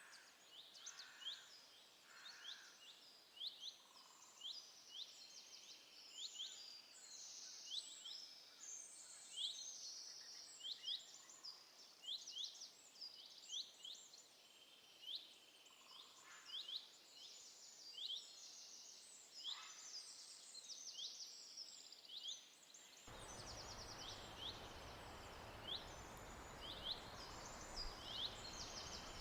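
Birds chirping in the forest: many short, high chirps, several a second. About 23 seconds in, a steady rushing noise comes in suddenly beneath them.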